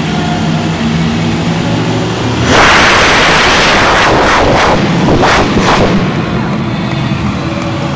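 Monster truck engine running with a steady low rumble, then opening up at full throttle about two and a half seconds in. It stays very loud for some three seconds, surges several times, then drops back to the low rumble.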